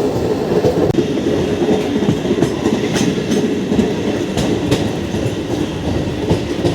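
MEMU electric train running along the track, a steady loud rumble of wheels and coach with scattered clicks as the wheels pass over rail joints.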